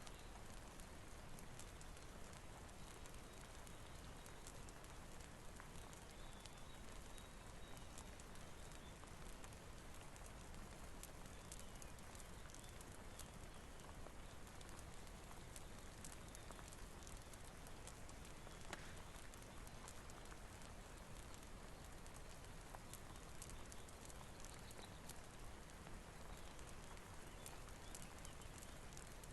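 Faint, steady rain-and-fireplace ambience: an even hiss of rainfall with many small scattered clicks and crackles.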